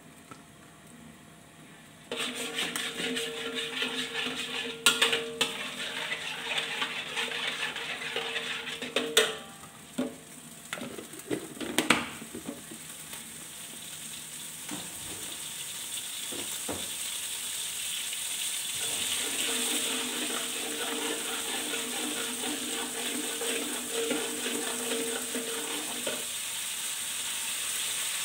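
Seasoning paste frying in hot oil in a steel wok, sizzling steadily from about two seconds in, with a metal ladle stirring and scraping and knocking against the wok a few times. The sizzle grows brighter toward the end.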